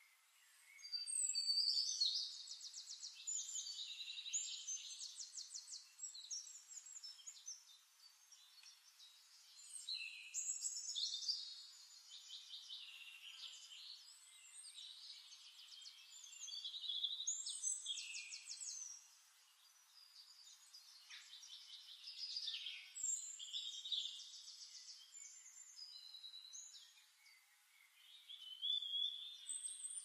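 Birdsong: varied phrases of fast trills and whistles, coming in about five bouts of a few seconds each with short quieter gaps between.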